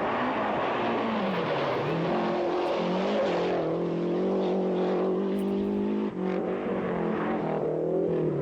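Rally car engine at racing speed, its pitch falling and rising with throttle and gear changes, with a brief drop about six seconds in.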